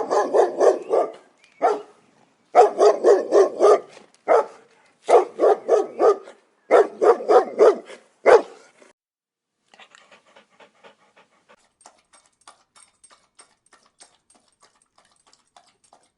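An animal calling in four loud volleys of short, rapidly repeated calls over the first eight seconds or so, then faint quick ticking.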